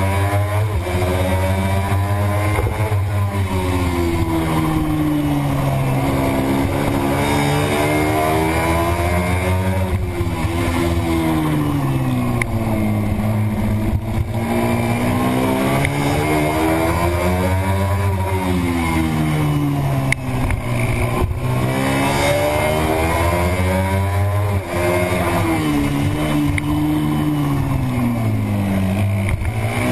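Road-racing motorcycle engine heard from on board, its pitch climbing as it accelerates and dropping as it slows for corners, several times over.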